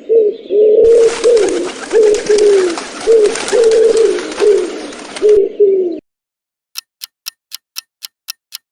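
Pigeon cooing in a run of short repeated coos for about six seconds, with a hiss behind it. Then a clock-like ticking starts, about four ticks a second.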